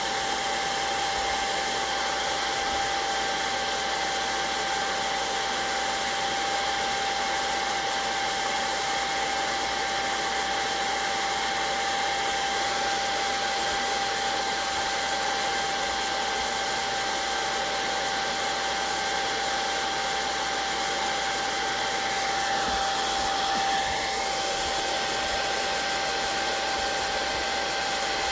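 Handheld electric blow dryer running steadily, drying wet watercolor and ink paint on paper, with an even rush of air and a constant whine.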